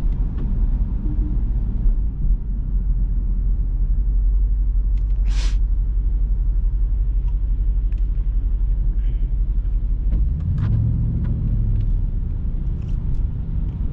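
Jeep Grand Cherokee SRT's V8 with a mid-muffler-delete exhaust droning low and steady inside the cabin while cruising, with road noise from the tyres. A brief hiss comes about five seconds in, and the engine note grows a little stronger after about ten seconds.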